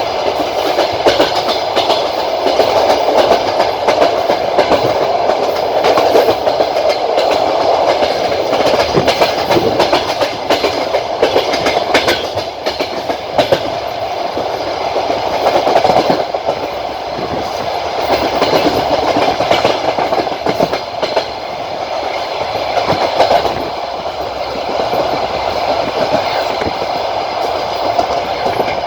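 Passenger train running along the line, heard from a coach window: a steady rumble of the moving coach with wheels clattering over rail joints in irregular clicks and knocks.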